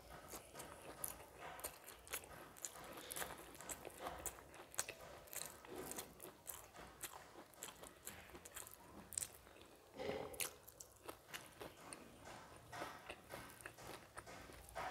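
Close-miked chewing and wet mouth sounds of a person eating a mouthful of rice mixed with cabbage and prawn, with many small clicks and smacks.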